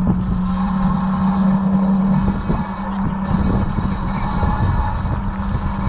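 Wind rumbling on the microphone while riding an electric bike, with a steady low hum that sets in at the start and holds throughout.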